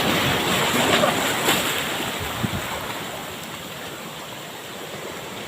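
Ocean surf washing up the beach: the rush of a broken wave, loudest in the first second or so, then slowly dying away.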